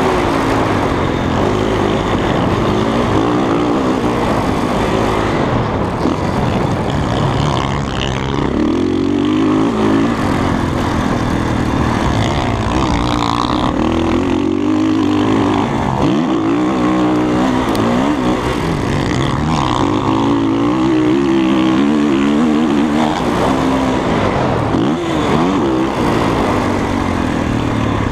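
Dirt bike engine being ridden hard, its pitch climbing and falling back again and again as the rider accelerates, shifts and backs off.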